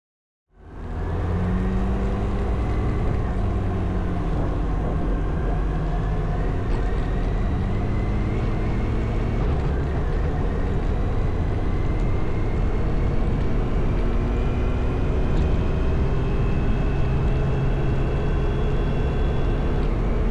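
Motorcycle engine running while riding. Its pitch climbs slowly, over a steady rush of wind and road noise. It comes in about half a second in.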